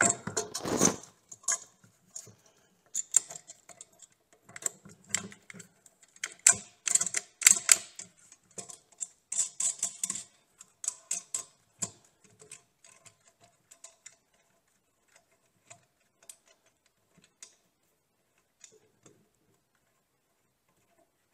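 Handling noise of a sander being fitted into a tilting sander base's clamp: an irregular run of sharp clicks, knocks and rattles, densest in the first dozen seconds, then thinning to occasional faint ticks.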